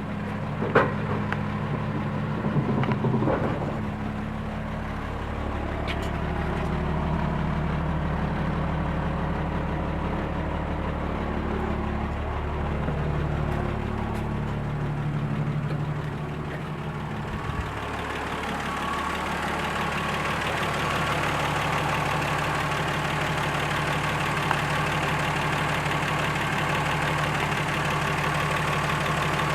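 1970 Dodge Dart Swinger's 225 slant-six idling steadily, with a few sharp knocks in the first seconds. About eighteen seconds in, the deep low hum drops away and a hissier sound comes up.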